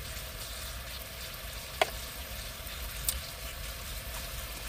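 Meat sizzling steadily in a frying pan, with a sharp click about two seconds in and a smaller one a second later.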